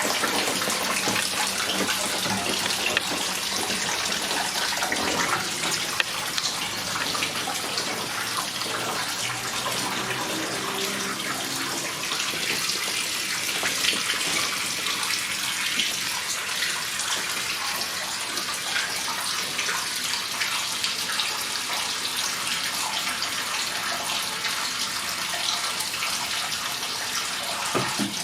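Water from a garden hose running steadily into a glass aquarium, the hose end under the surface, as the resealed tank is filled for a leak test. A constant rushing hiss with no break.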